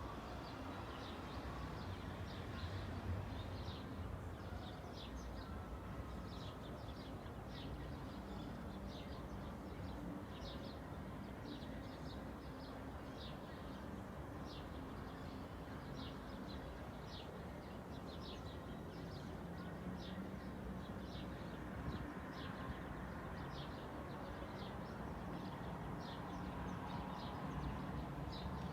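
Small birds chirping in quick, repeated short notes over a steady hum of traffic.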